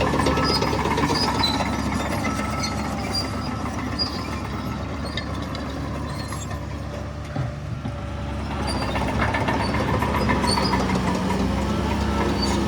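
Heavy diesel earthmoving machinery running steadily, a bulldozer and dump truck at work on stone fill; the engine noise eases off in the middle and builds up again after about eight seconds.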